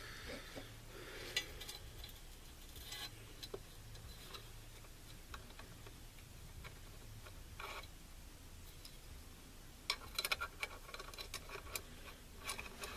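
Faint scattered clicks and light handling knocks of small rifle parts, with a quick run of clicks about ten seconds in, over a low steady hum.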